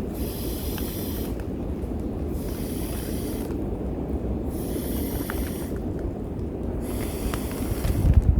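Storm wind buffeting the microphone with a steady low rumble, and a breath-like hiss about every two and a half seconds, four times.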